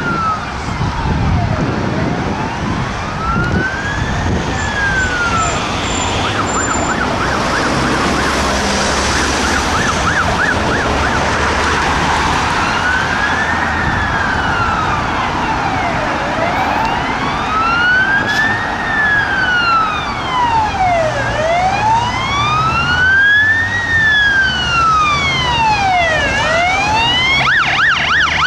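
Fire engine's electronic siren on a slow wail, rising and falling about every five seconds, switching to a fast yelp for a few seconds about a quarter of the way in and again near the end. Road traffic and engine noise run underneath.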